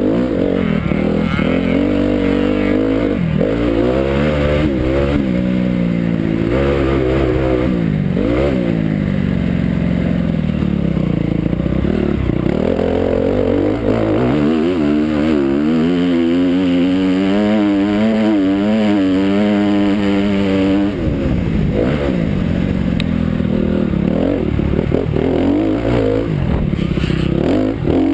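Motocross dirt bike engine revving hard and backing off again and again as it rides the track. It holds a wavering, fairly steady pitch for several seconds in the middle, then resumes the rising and falling revs.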